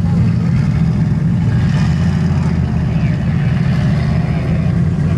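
Car engine running steadily at a constant low pitch.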